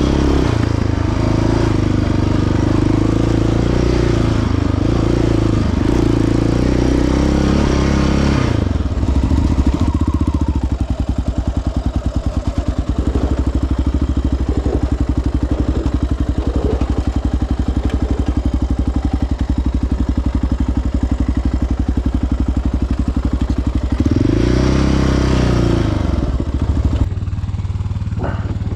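Single-cylinder four-stroke ATV engine revving up and down under throttle, then settling to an even idle about eight seconds in. It is blipped up again briefly near the end before dropping back to idle.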